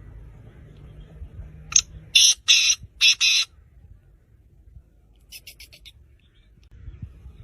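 Six-month-old black francolin calling: a burst of four loud, harsh, rasping notes about two seconds in, the last one drawn out, then a couple of seconds later a fainter quick run of about six short notes.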